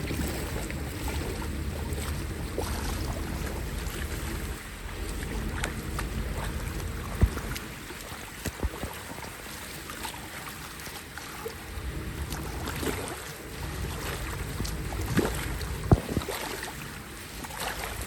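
Floodwater flowing and splashing at a street drain, with a few sharp splashes as debris is pulled from it by hand.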